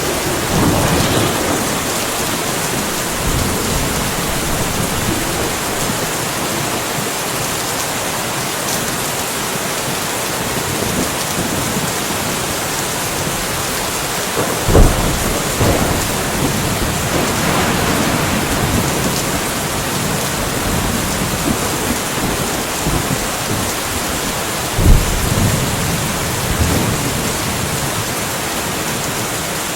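Steady rain hissing, with thunder. Two sharp, loud thunderclaps with rumbling tails come about halfway through and about five seconds before the end, with softer swells of rumble in between.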